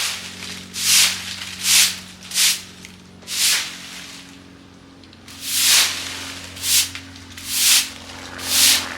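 Dry fallen leaves rustling in repeated swishes, roughly one a second and unevenly spaced, over a steady low hum.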